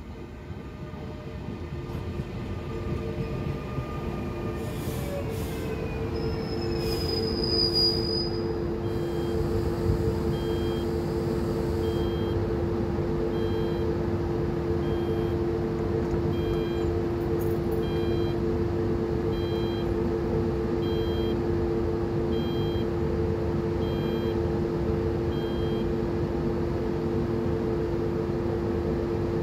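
A train approaching and passing, growing louder over the first several seconds into a steady, loud rolling noise. Two sustained squealing tones run through it, and from about nine seconds a short high tone repeats roughly every 1.3 seconds.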